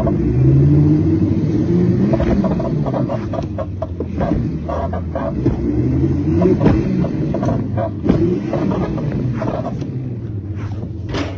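Dirt bike engine revving, its pitch rising and falling over and over with a steady low rumble underneath.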